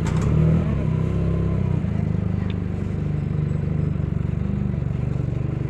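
Benelli TNT 300's parallel-twin engine idling steadily with the bike stopped.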